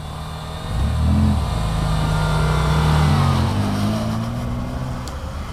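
Mitsubishi Pajero's 3.0-litre V6 engine accelerating hard under load about a second in, then easing off and fading over the last couple of seconds.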